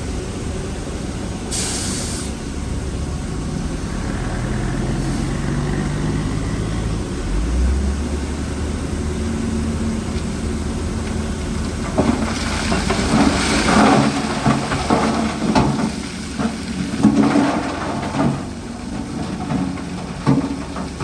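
Heavy diesel earthmoving machinery running steadily, with a short air hiss about two seconds in and the engine note rising about halfway through. From about twelve seconds in, a loose crackling clatter of stone and dirt being pushed or tipped sounds over the engine.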